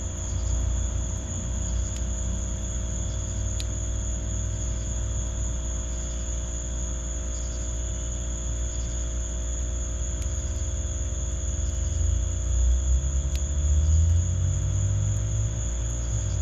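A summer insect chorus: a steady high trill with softer chirps pulsing under it. Beneath it runs a low rumble that swells near the end, with a sharp pop from the fire pit twice.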